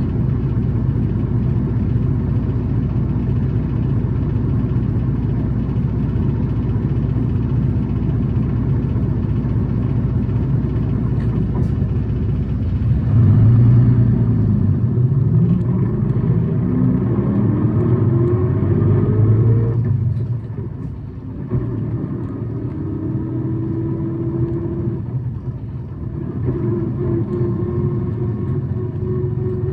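Tokyu city bus engine running steadily at idle, then about thirteen seconds in the bus pulls away and a whine rises in pitch as it accelerates. It eases off briefly about twenty seconds in, holds a steady tone, and rises again near the end. The uploader labels this bus high-revving and a noise-car.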